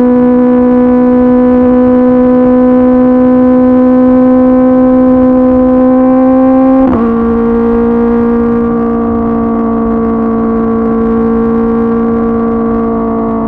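Kawasaki ZX-10R inline-four running through an SC-Project CRT exhaust at steady cruising revs, the pitch climbing slowly. About halfway through there is a quick break and the note settles a little lower, as on an upshift, then holds steady and eases off slightly.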